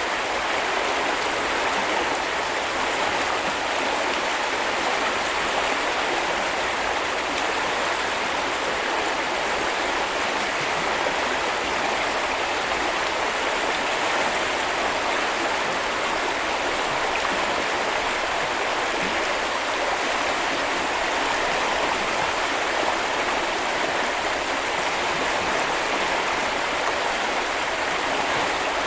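Steady rushing and burbling of a small river's flowing water, an even wash of sound with no breaks.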